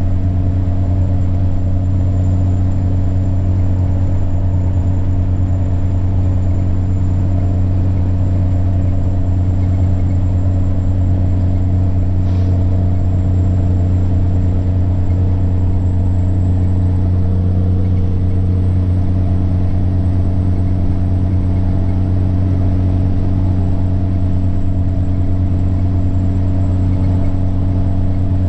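Semi-truck's diesel engine droning steadily while cruising, with a thin, high, steady turbocharger whine over it that rises a little about two-thirds of the way through.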